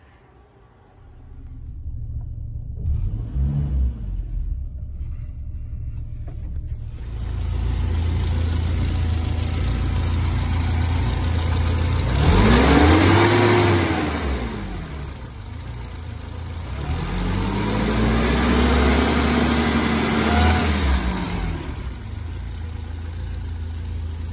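BMW E30 M3's S14 four-cylinder engine running at idle. The throttle linkage is worked by hand, giving a short rev about twelve seconds in and a longer, held rev around eighteen to twenty-one seconds in, each falling back to idle.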